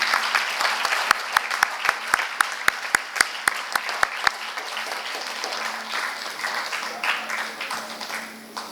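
Audience applauding, with one close pair of hands clapping in a steady beat of about four claps a second for a few seconds; the applause dies down near the end.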